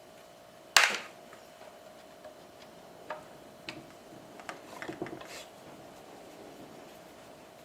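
A sharp knock about a second in, then a handful of lighter clicks and taps, over a faint steady hum.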